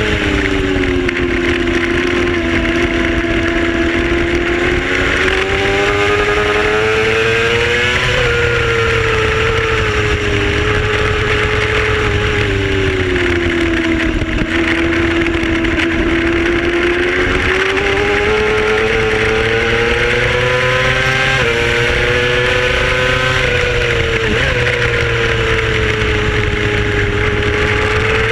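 Racing motorcycle engine heard from on board at race pace, its pitch climbing and falling over several seconds at a time, with a few abrupt steps where the rider shifts gear. A steady rush of wind sits under the engine throughout.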